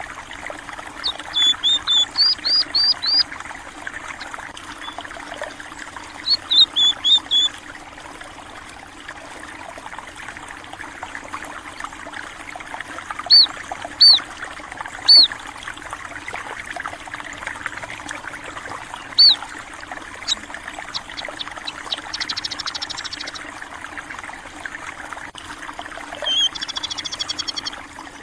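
Stream water running and trickling steadily, with small songbirds chirping over it in short quick runs of high notes, single chirps in between, and a buzzy trill near the end.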